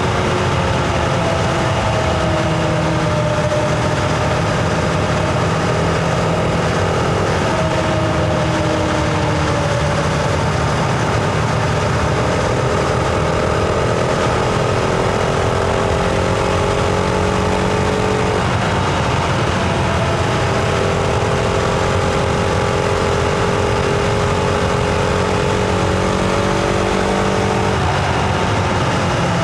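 Husqvarna Vitpilen 701's single-cylinder engine running under way, heard on board, its pitch drifting up and down with the throttle and jumping at several points as gears change.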